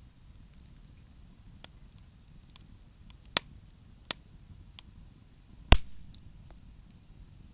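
Wood fire popping and crackling: scattered sharp pops, four of them loud, the last and loudest with a brief crackling tail, among fainter ticks.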